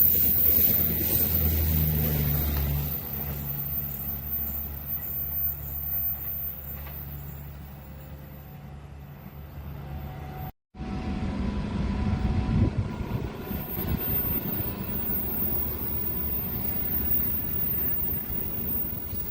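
Diesel engine hum fading away over about ten seconds, then, after an abrupt cut, a steady low rumble, typical of a train passing the track.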